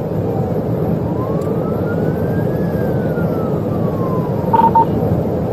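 Police car siren on a slow wail, rising and falling, over loud steady road and engine noise from a cruiser in a high-speed pursuit. Two short beeps sound near the end.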